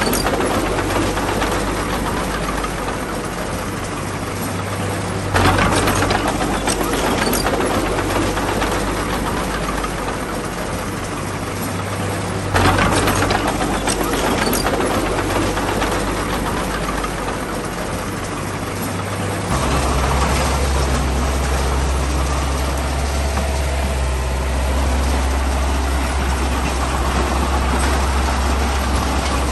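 Heavy diesel engine of a bulldozer working, clattering steadily and surging louder twice as it takes load. About twenty seconds in, the sound changes to a deeper, steady engine drone.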